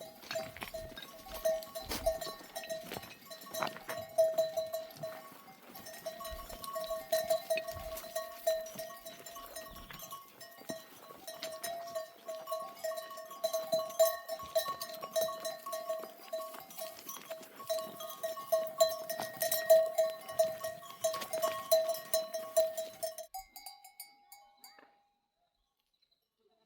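Bells on a grazing flock of sheep clanking and ringing on and on as the animals move, with many sharp clinks. The sound cuts off abruptly near the end.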